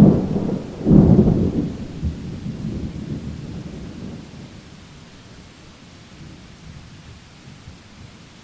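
Thunder during a rainstorm: a sharp clap at the start and a second, louder one about a second in, rumbling away over the next few seconds while steady rain hisses on.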